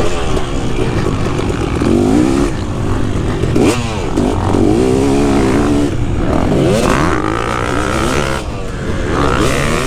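KTM 250 SX two-stroke motocross engine revving hard and falling off again several times, pitch sweeping up and down as the rider works the throttle and gears around the track.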